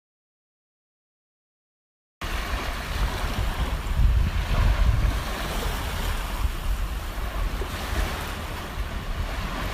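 Sea waves washing onto a beach, with wind buffeting the microphone, starting about two seconds in after complete silence.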